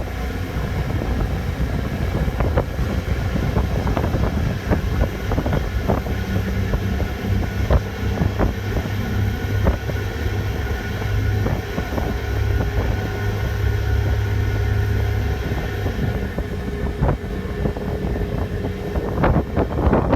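Passenger ferry's engines running with a steady low drone, stronger through the middle, with wind buffeting the microphone.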